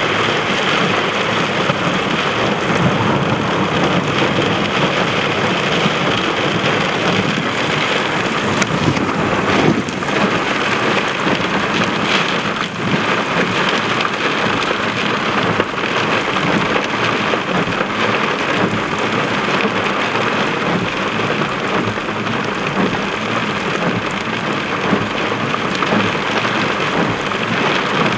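Heavy downpour falling steadily on and around a car, a dense, even hiss of rain.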